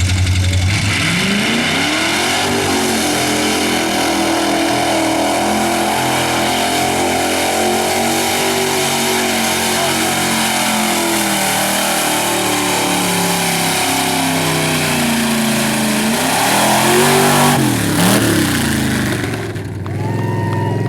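Mud truck engine revving hard through a mud-bog run. It climbs in pitch over the first couple of seconds and holds at high revs, then drops and climbs again briefly near the end.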